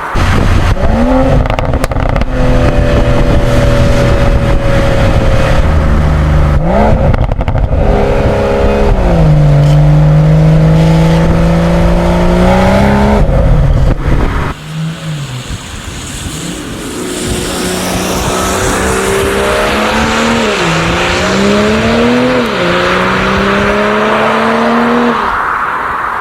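BMW M340i/M440i's 3.0-litre turbocharged straight-six (B58) running hard, its pitch gliding and jumping as the revs change with gear changes. About halfway through it drops suddenly to a quieter engine sound that again climbs in pitch in steps.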